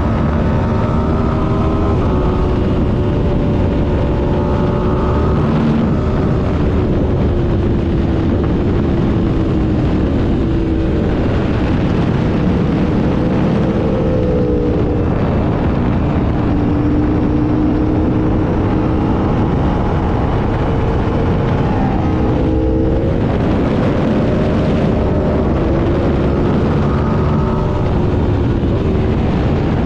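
Aprilia RSV4's V4 engine heard onboard at speed, its pitch climbing slowly and dropping several times as the rider works the throttle and gears. Heavy wind rush on the microphone runs underneath.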